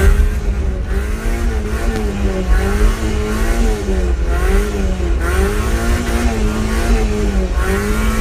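Mazda MX5 1.6's four-cylinder engine revving up and down about once a second while the car is held in a drift, with tyres squealing in spells.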